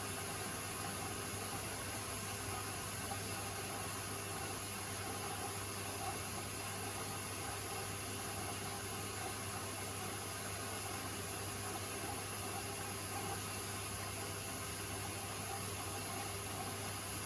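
Beko WTK104121A washing machine with water rushing through it mid-cycle: a steady hiss over a constant low hum.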